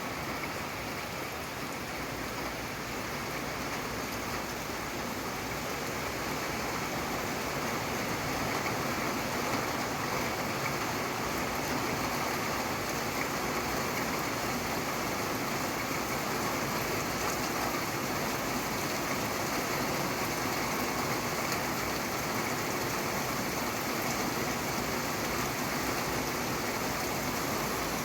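Steady rain falling, an even hiss with no thunder, growing a little heavier about a third of the way in.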